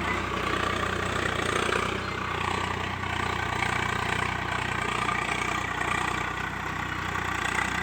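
Tractor engine running steadily at a low, even pace.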